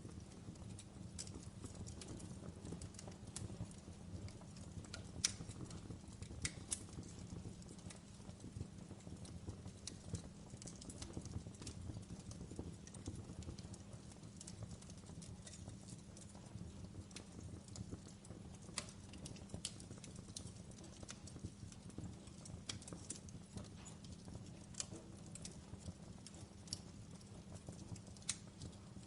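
Wood fire crackling in a fireplace: a low steady rumble of flames with scattered sharp pops and crackles, the loudest pop about five seconds in.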